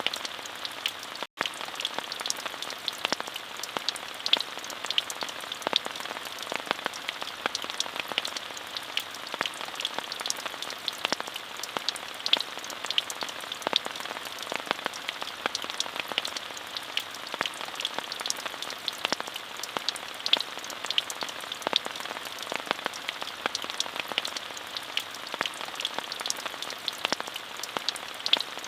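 Steady rain falling: an even hiss dense with the patter of individual drops. The sound cuts out for an instant about a second in.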